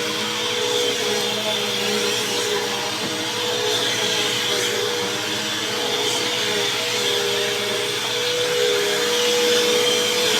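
BISSELL CleanView Helix bagless upright vacuum cleaner running steadily over carpet, a constant motor whine over the rush of air.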